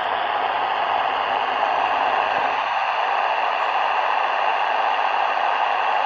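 Steady hiss of shortwave band noise from a Sony ICF-SW7600 receiver in lower-sideband mode on the 40-metre band, with no intelligible signal: the station being called back is too weak to copy through the noise.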